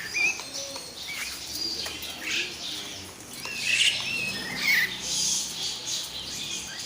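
Several caged songbirds chirping and calling, short overlapping chirps and whistled notes, with a few louder calls about four and five seconds in.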